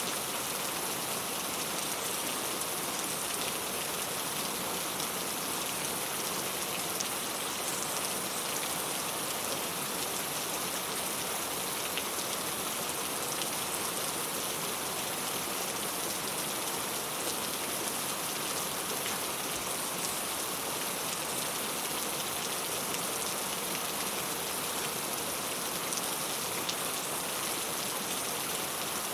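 Steady rain falling on a clay-tile roof: an even hiss with a few faint drop ticks.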